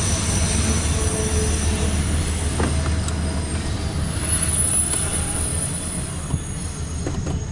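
CSX intermodal freight train rolling past, a steady low rumble of wheels on rail with a thin high squeal from the wheels above it.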